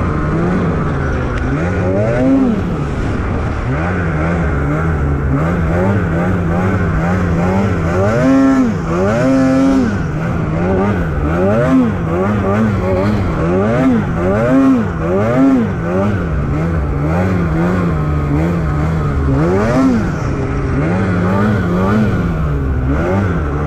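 Snowmobile engine revving up and down over and over as the throttle is worked while riding through deep powder, its pitch climbing and dropping about once a second, highest about eight to ten seconds in.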